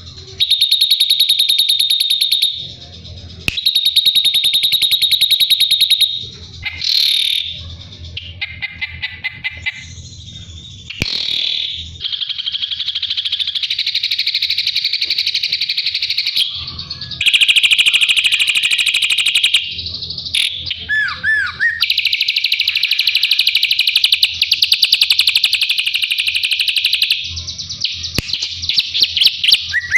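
Drongo song: long runs of very rapid, buzzy high trills lasting several seconds each, broken by short gaps and varied chirps and slurred whistles.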